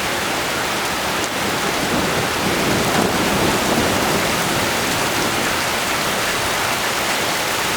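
Heavy rain pouring steadily during a thunderstorm, with a low rumble of thunder swelling in about two seconds in and fading by about five seconds.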